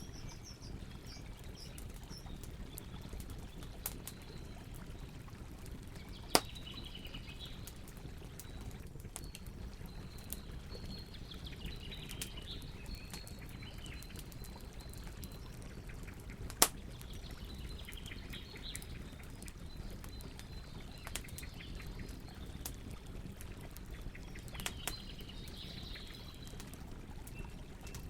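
Campfire burning with a low steady rumble and constant small crackles, and two loud sharp pops about six and sixteen seconds in. Birds chirp now and then in the background.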